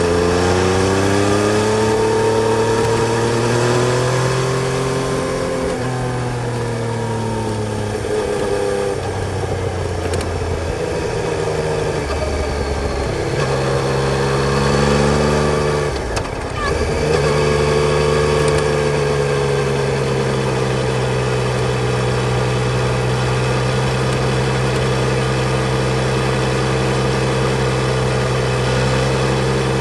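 Yamaha Tracer 900 GT's 847 cc inline-three engine running under way. Its pitch rises and falls in steps through the first half as it goes through the gears, then holds steady from a little over halfway on.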